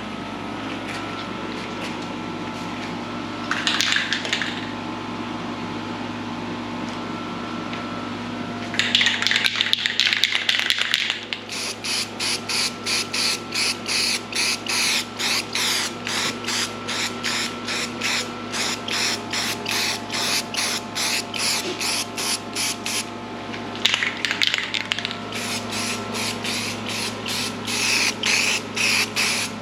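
Compressed-air gun hissing in bursts over a steady machine hum. It gives a few longer blasts, then from about a third of the way in, rapid short pulses about two a second.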